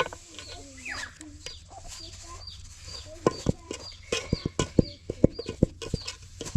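Chickens clucking, with high short chirps repeating about twice a second, and a run of sharp knocks about halfway through.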